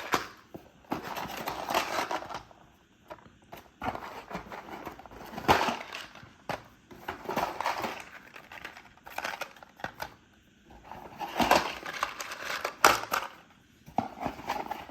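Plastic mystery-pack bags and box packaging being handled, rustling and crinkling in irregular bursts with short quiet gaps between them.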